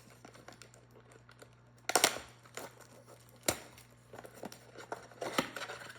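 Packaging of a trading card box being torn open and crinkled: a sharp rip about two seconds in, then a click and smaller crackles.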